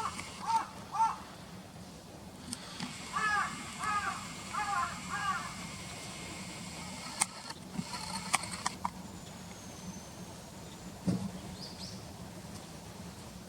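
A crow cawing in short repeated caws, about two a second: a few at the start and a run of four a few seconds in. A few sharp high clicks follow in the middle.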